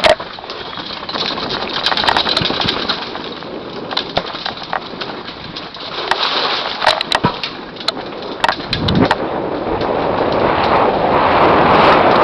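Mountain bike descending a dirt downhill trail: steady rolling noise with frequent sharp clicks and knocks from the bike rattling over rough ground, growing louder over the last few seconds as speed builds.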